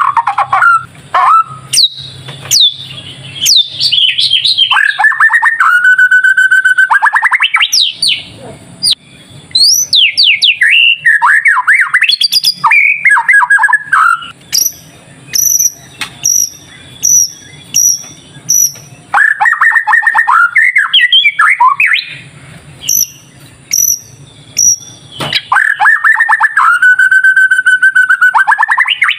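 White-rumped shama singing: loud varied whistled phrases with sweeping rises and falls and fast rattling trills. Through the middle a short high chirp repeats about every 0.7 seconds.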